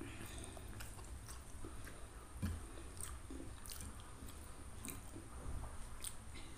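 Close-miked chewing of rice and stir-fried water spinach, with small wet mouth clicks and smacks scattered throughout and one louder low thump about two and a half seconds in, over a steady low hum.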